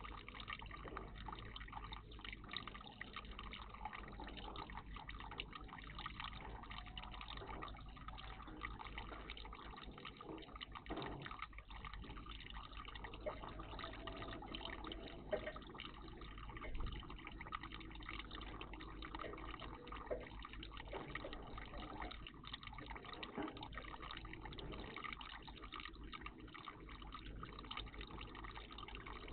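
Water trickling and dripping in a garden bird bath, with a few brief louder splashes.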